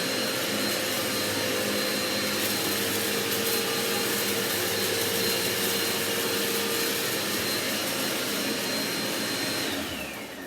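Dirt Devil Quickpower Cyclonic vacuum cleaner running, its motor giving a steady high whine over a rushing airflow; near the end it is switched off and the whine falls away as the motor winds down.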